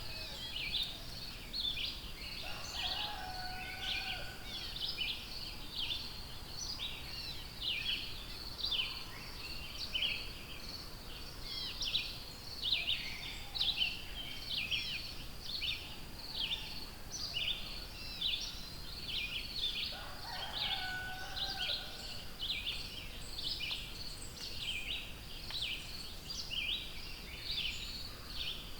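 Forest birdsong chorus: many small birds chirping and trilling densely without pause, with a lower whistled phrase from another bird twice, once a few seconds in and once about two-thirds of the way through.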